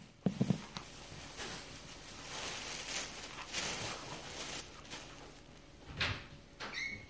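Rustling of toy packaging being handled, with a few light knocks and taps near the start and again about six seconds in.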